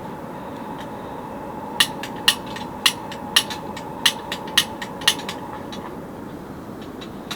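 A series of sharp knocks, about two a second for a few seconds, over a steady rushing background.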